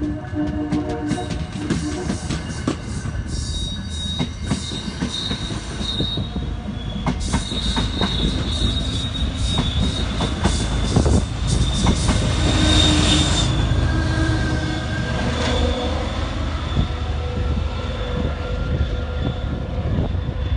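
MBTA commuter train's bilevel coaches rolling past close by, wheels clicking over the rails. There is a steady low rumble and high-pitched wheel squeal through much of the first two-thirds, loudest about twelve seconds in.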